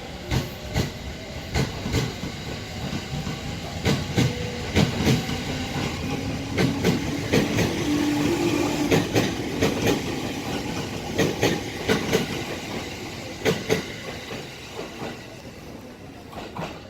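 Electric train running past on the platform track, its wheels clacking over rail joints in quick pairs and clusters over a steady rolling hiss. It grows louder towards the middle and fades near the end.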